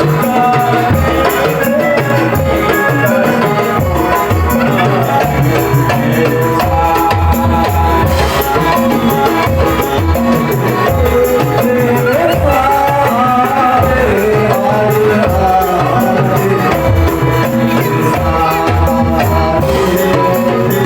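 Loud traditional East Javanese folk music: steady drumming with rattling percussion under a wavering melody line.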